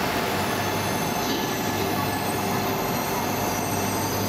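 E2 series Shinkansen standing at the platform, its onboard electrical and cooling equipment running with a steady hum and several high, constant whines.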